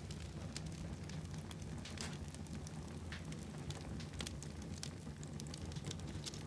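Fire burning in a fireplace, crackling: a steady scatter of small, sharp pops over a low, even rumble.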